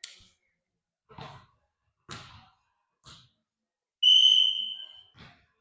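Referee's whistle blown once, a single high steady blast of about a second that starts about four seconds in and fades away, with a few faint short knocks before it.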